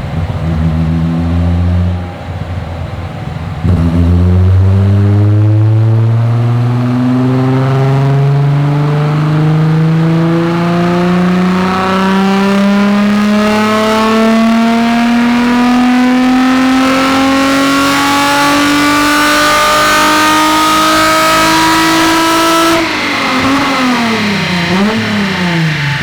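Toyota Celica Supra's 5M-GE 2.8-litre inline-six under a dyno power run: after a few seconds at low speed it pulls at full throttle, its pitch rising steadily for about nineteen seconds. Near the end the throttle is shut and the revs fall and rise several times in quick swings.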